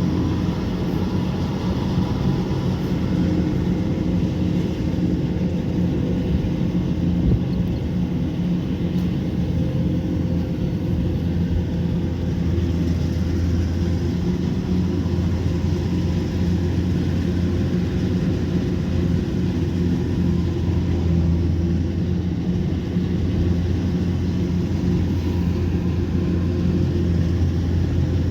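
Kubota combine harvester engine running steadily: an unbroken low drone with a steady hum on top.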